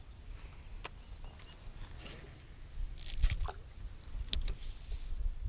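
Fishing rod and reel being cast and worked from a boat: a few sharp reel clicks and a brief high hiss of line going out, over a low steady rumble.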